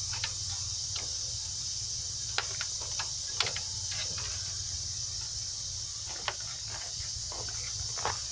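Scattered light clicks and small metal knocks of brake parts and tools being handled and fitted, over a steady background hum and hiss.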